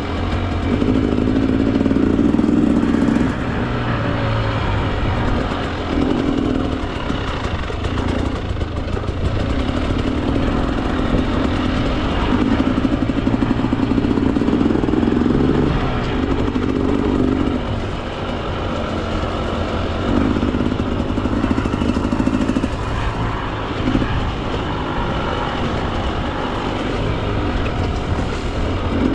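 Two-stroke Husqvarna TE 300 enduro dirt bike being ridden on a rough trail, the throttle opening and closing in bursts every few seconds as the rider works it over the terrain.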